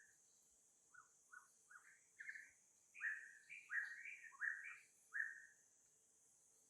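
A bird singing a phrase of about ten short, quick chirps that start faint and grow louder, over a steady high insect hiss.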